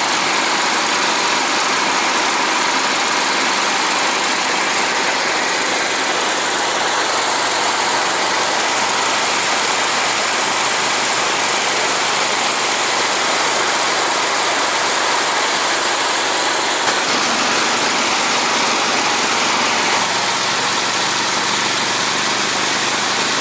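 Engine of a motorized snow tow (motobuksirovshchik) running steadily while under way, under a heavy steady rush of wind noise.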